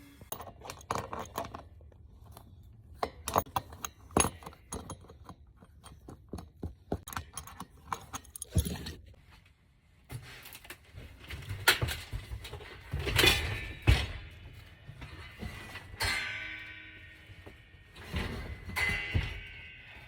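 A run of clatters and knocks, like hard objects being handled and set down, getting busier and louder about halfway through with some clanking and ringing.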